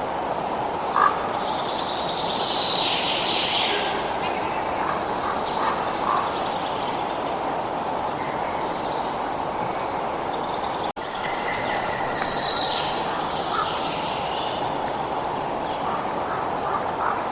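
Birds chirping and calling over a steady rushing background noise, with a brief break in the sound about eleven seconds in.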